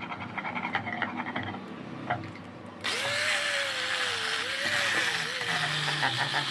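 Light scraping and ticking of workshop tool work over a low hum, then, after an abrupt change about three seconds in, a power tool grinding with a loud hiss, its motor pitch wavering as it is pressed into the work.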